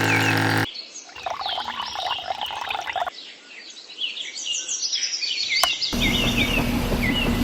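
Small birds chirping over and over in quick short calls. A steady motor hum runs beneath them at the start, stops abruptly, and comes back about six seconds in. A single sharp click comes just before it returns.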